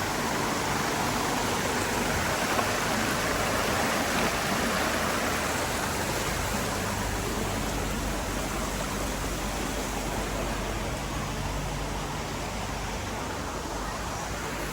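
Waterfall: a steady rush of falling water, easing slightly toward the end.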